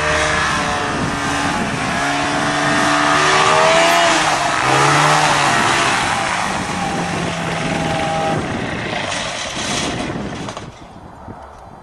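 Light airplane's piston engine and propeller run at high power, the pitch rising and falling as the plane pulls through sticky mud, then the sound drops away sharply near the end as power comes off or the plane moves off.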